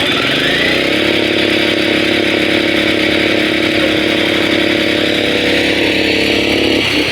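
Engine of concrete-casting machinery revving up in the first second, holding a steady high speed, then dropping back near the end, over a constant hiss.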